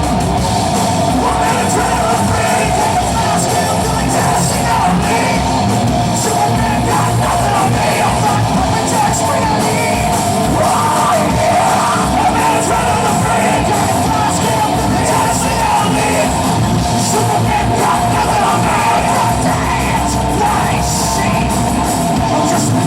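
Live rock band playing loud, with a singer's voice carried over the band.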